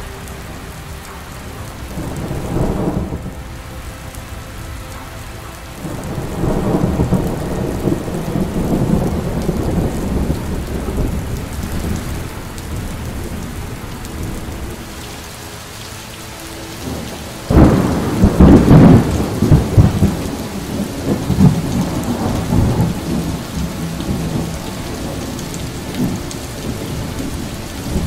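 Thunderstorm: steady rain with thunder rumbling several times, loudest in a sudden clap a little past halfway that rolls on for a few seconds.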